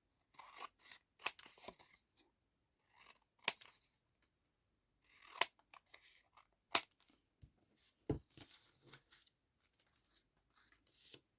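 Scissors snipping paper in short runs of sharp cuts, trimming a collage piece, with light paper handling between the cuts and a soft thump about eight seconds in.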